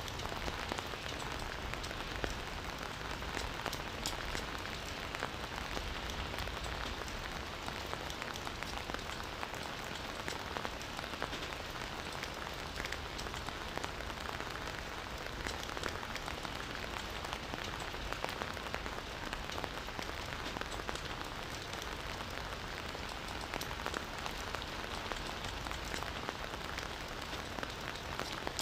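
Steady rain falling on leaves and ground, an even patter thick with close individual drop ticks.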